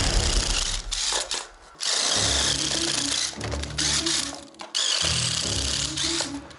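Power drill running in several bursts of a second or so each, with short stops between them, over rap background music.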